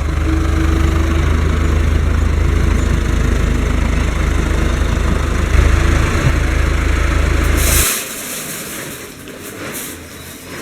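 Fendt Farmer 106 S tractor's four-cylinder diesel engine running loud and steady close up. It cuts off abruptly about eight seconds in, leaving a much quieter, different sound.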